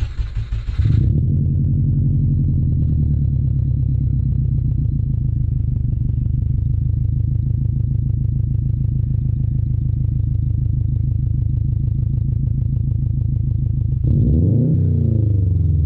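Subaru Impreza's flat-four boxer engine running through an aftermarket 3-inch exhaust: it settles into a steady, low idle after a brief rough, noisy moment at the start. Near the end the throttle is blipped once, the note rising and falling back.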